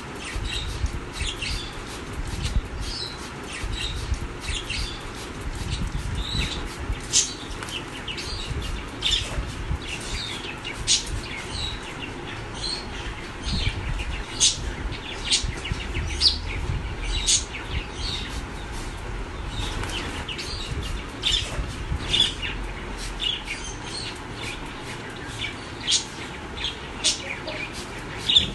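Pet ringneck parrot giving frequent short chirps and sharp calls, with bursts of wing flapping.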